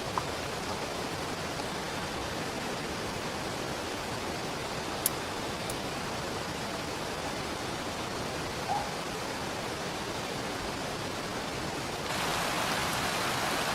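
Steady rushing noise of rain and flowing river water, with a few sharp clicks. About twelve seconds in, it steps up louder and brighter.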